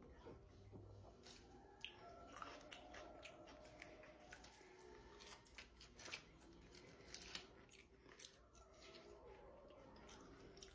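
Faint close-up eating sounds: a person chewing food, with many small irregular clicks and crackles from the mouth and the food.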